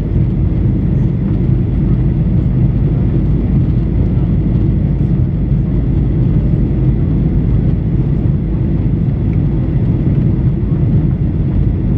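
Steady low-pitched engine and air noise heard inside the cabin of a Boeing 737-800 with CFM56-7B turbofan engines.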